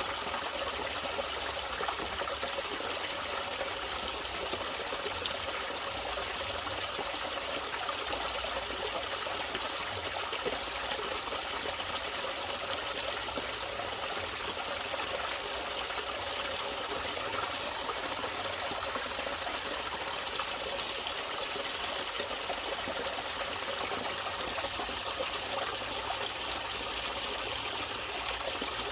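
A natural stream of water trickling and running steadily, an even rushing with no pauses.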